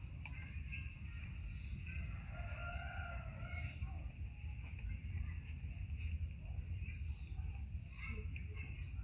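Outdoor garden ambience: short high bird chirps every one to two seconds over a steady low rumble.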